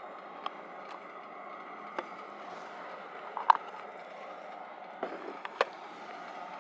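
Camp gear being handled: a handful of sharp clicks and knocks, the loudest about halfway through, over a steady rushing background.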